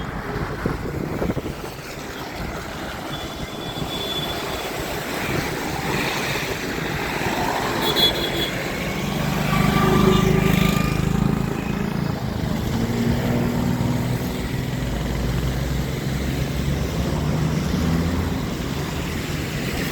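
A vehicle's engine running, with a steady low hum that swells about ten seconds in over a rushing background noise.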